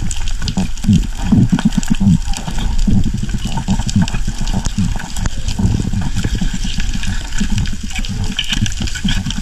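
Sea water sloshing and splashing, with an unbroken low churning rumble underneath.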